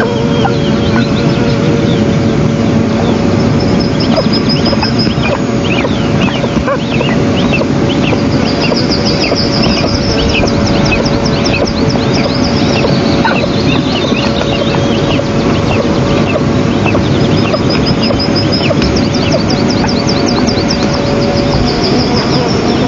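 Eastern imperial eagle chicks begging, in runs of high, quickly repeated chirping calls over a steady rushing noise.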